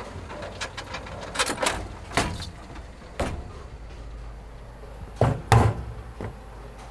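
A few loud, irregular knocks and clatters, the loudest pair near the end, over a low steady hum.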